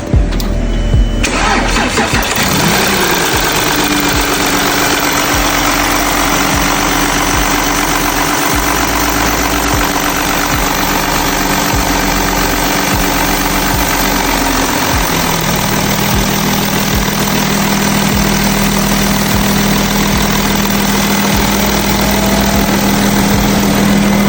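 Car engine started about a second in and left idling steadily. Its idle settles lower about two-thirds of the way through.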